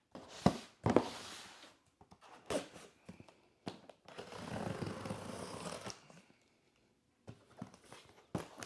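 Product packaging being opened and handled by hand: two sharp knocks under a second in, then tearing and rustling of packing material, a short lull about six seconds in, and a few small clicks near the end.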